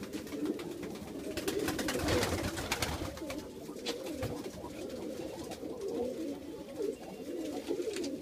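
A flock of domestic pigeons of Iraqi breeds cooing, many low warbling coos overlapping without a break, with a few sharp clicks and rustles around two to three seconds in.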